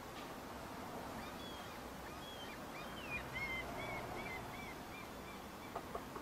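A small bird singing a run of short, quick whistled notes, some sliding up or down, over a steady outdoor hiss, with a few sharp ticks near the end.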